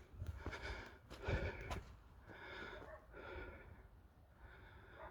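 A man breathing close to the microphone: a run of faint, audible breaths in and out.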